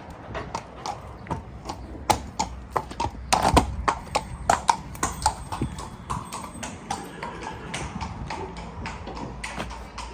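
Horse hooves clip-clopping, a run of sharp irregular hoof strikes that is busiest from about two to five seconds in.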